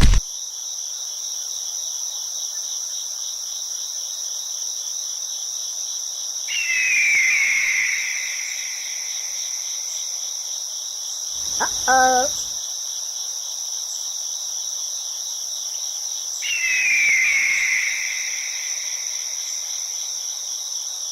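Crickets chirping steadily. Two short louder swishing swells come about 7 and 17 seconds in, and a brief pitched call around 12 seconds.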